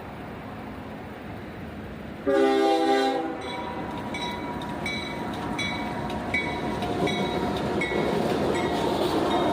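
A train horn sounds one short blast about two seconds in. A bell then dings steadily over the rising rumble of an approaching train.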